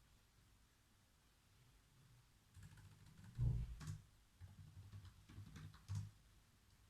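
Typing on a computer keyboard: after a quiet pause, a short run of keystroke clicks starts about two and a half seconds in, with one heavier knock near the middle.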